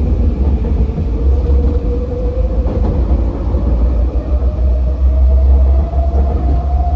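SkyTrain rapid-transit train running: a heavy steady rumble with a whine rising slowly in pitch throughout.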